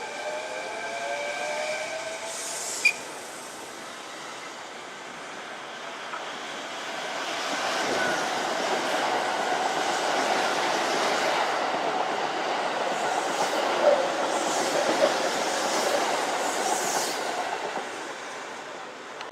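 Kintetsu electric train passing through the station: a few seconds of gliding and steady tones at first, then the rolling noise of the train builds, stays loud for about ten seconds with a few sharp wheel clacks, and fades near the end.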